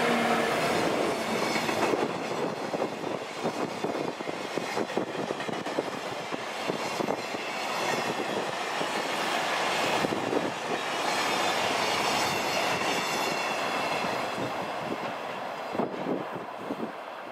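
EF64 1000-series electric locomotive and its container freight train passing close by. A steady whine comes from the locomotive at the start, then a long string of container wagons clatters past over the rail joints. The sound thins near the end as the train draws away.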